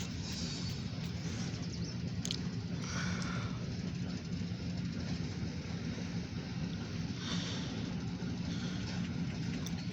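Diesel freight locomotive engine running with a steady low rumble.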